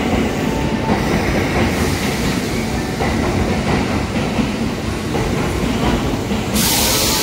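Train rumbling steadily with a clickety-clack of wheels on rails, then a sudden loud air hiss about six and a half seconds in.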